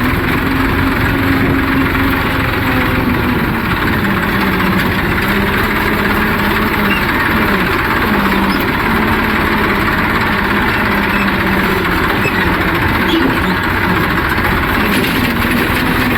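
Massey Ferguson 241 three-cylinder diesel tractor engine running steadily under load while pulling a land leveller. Its pitch drops about four seconds in and rises again near the end.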